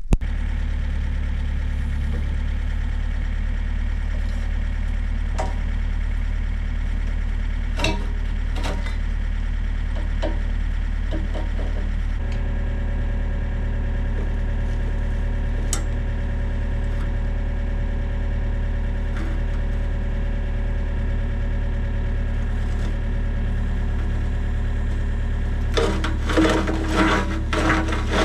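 An engine running steadily at a constant speed, with a few sharp clicks. Near the end, irregular crackling comes in over it.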